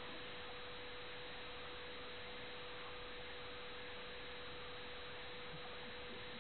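Faint steady hiss with a single constant pure tone, like an electrical hum, held unchanged throughout.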